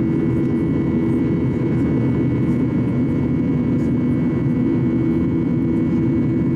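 Boeing 737-800's CFM56 jet engines running steadily during the climb, heard from inside the cabin as an even, unbroken noise with a low hum and a few constant whining tones.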